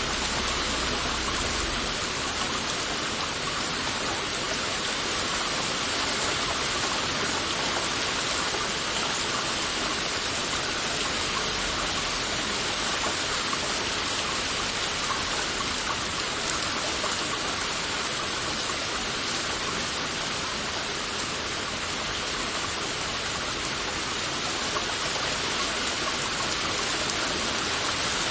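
Heavy rain falling steadily, a dense even hiss of many drops with no single drops standing out.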